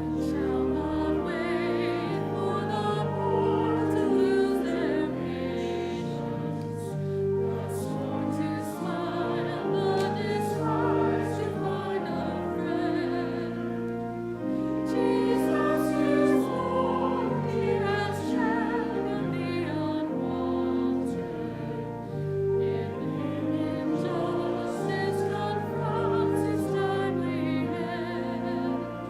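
Church music: singing voices with vibrato over sustained organ chords.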